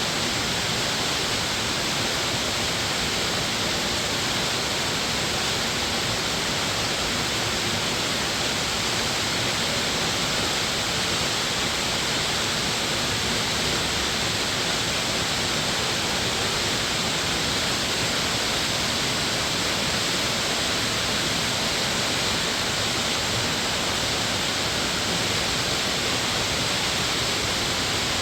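Rushing water of a mountain valley stream, a loud steady hiss with no change.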